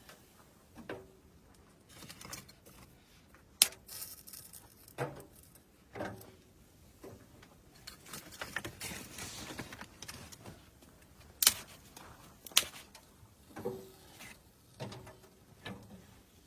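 Irregular sharp knocks and clicks, some with a short low ring, and a rustling noise about eight seconds in.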